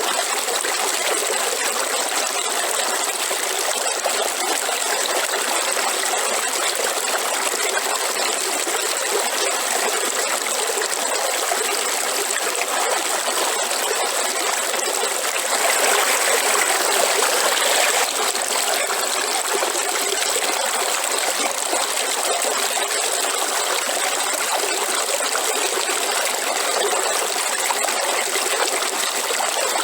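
Waterfall: a steady rush of falling water, a little louder for about two seconds past the middle.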